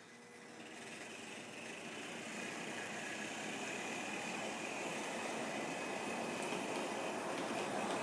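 A train running along its track, a steady mechanical running noise that grows gradually louder.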